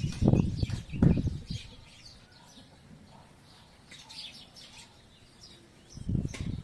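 Small birds chirping in scattered short calls throughout, with several loud low rumbles in the first second and a half and again near the end.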